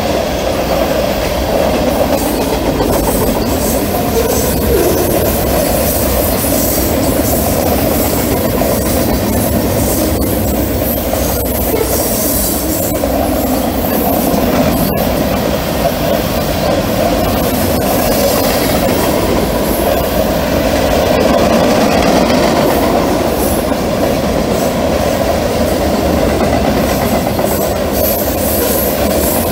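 A fast mixed freight train's cars rolling past at speed: a loud, steady rumble of steel wheels on the rails.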